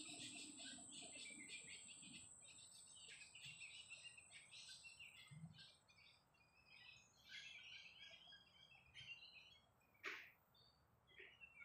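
Faint chorus of birds chirping and calling, busy for the first few seconds and then thinning out, with a sharper single call about ten seconds in and another near the end. A steady thin high-pitched whine runs underneath.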